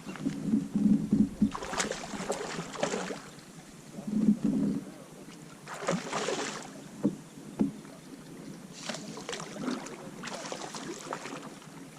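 Water splashing and sloshing around a kayak in several short, irregular bursts.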